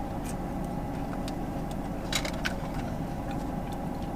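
A steady low background hum with a few soft clicks about two seconds in.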